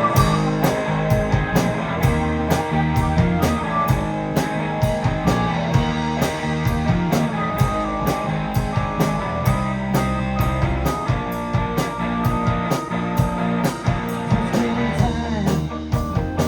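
Live rock band playing an instrumental passage with no vocals. Drums keep a steady cymbal beat under electric bass, guitar and keyboards.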